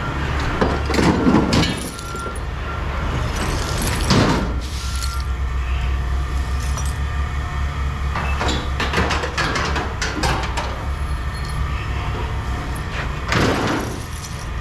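Vehicle engine idling with a steady low rumble, with several short bursts of clattering and banging about 1, 4, 9 and 13 seconds in.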